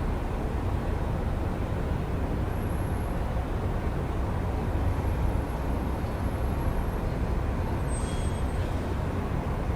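City traffic at night heard through an open window: a steady low rumble of passing cars and buses, with a brief faint high-pitched squeak about eight seconds in.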